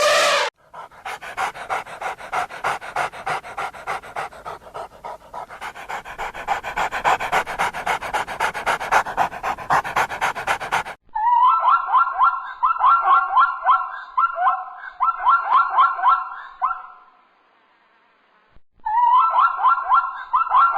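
A dog panting fast and steadily for about ten seconds. It is followed by runs of short, quick, high-pitched calls repeated several times a second, which break off and return near the end.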